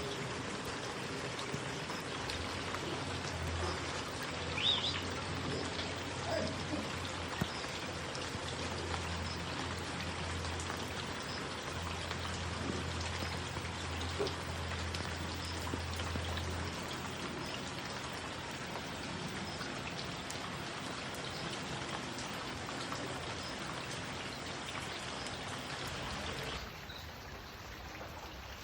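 Steady rain falling, an even patter of raindrops on surfaces, slightly quieter in the last couple of seconds.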